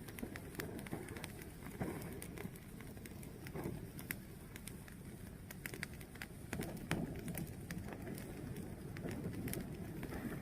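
Fire burning, with a steady low rush and irregular sharp crackles and pops.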